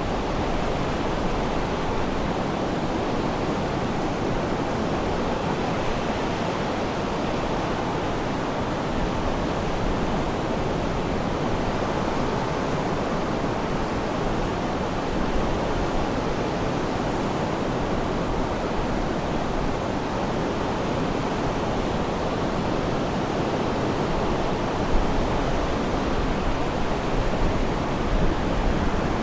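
Sea surf washing in a steady rush of noise without a clear rhythm of separate waves, with a few slightly louder surges near the end.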